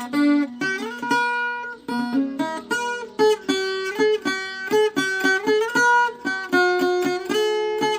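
Viola caipira playing a plucked melody, its notes ringing over a held low bass note.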